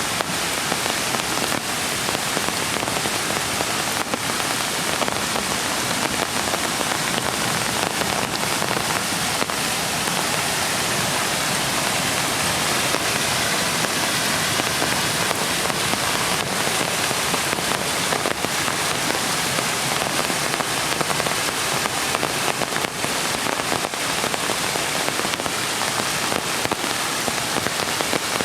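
Steady rain falling, with many small drop ticks on hard surfaces.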